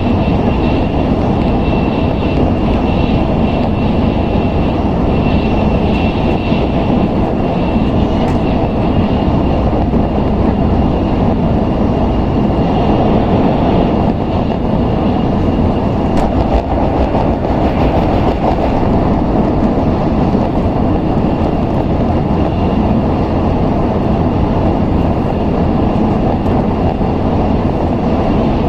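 Steady cabin noise inside an N700S Tokaido Shinkansen running on the line: a dense, even rumble of wheels, track and air, with a faint high whine that is clearest in the first half.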